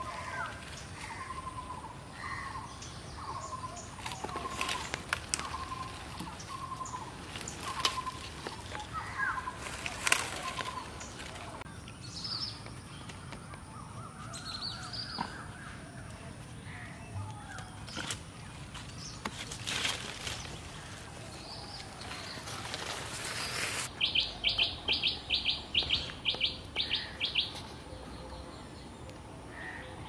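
Birds calling. A short call repeats about once a second for the first ten seconds. Near the end comes a quick run of about a dozen loud, shrill calls, some four a second, with scattered sharp clicks and rustles throughout.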